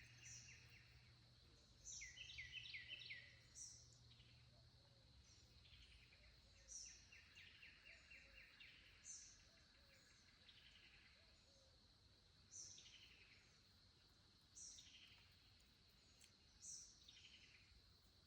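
Faint birdsong: a short high note sliding down, repeated every two seconds or so, with quick runs of trilled notes about two and seven seconds in.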